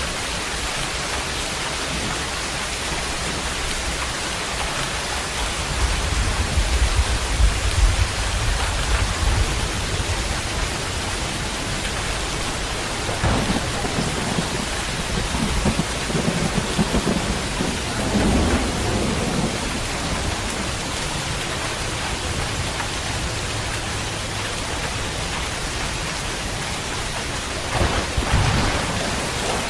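Steady heavy rain falling, with rolls of distant thunder: a low rumble swells a few seconds in, and further rumbles come midway and near the end.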